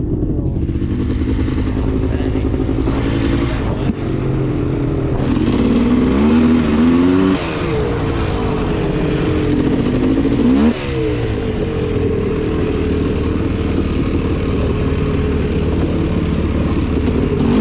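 Polaris Scrambler 400 two-stroke ATV engine running under way, revving up and easing off. The pitch climbs and drops abruptly twice, about six seconds in and again near eleven seconds.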